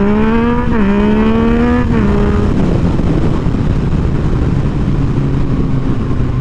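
Motorcycle engine revving up under acceleration, with a quick gear change under a second in, climbing again, then the throttle closes about two seconds in and the engine settles to a steady low run, with wind noise.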